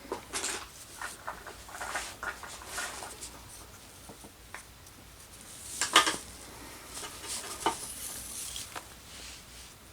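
Wooden craft sticks and cordage being handled while tied into a small square: irregular light clicks, taps and rustles, with a sharper knock about six seconds in.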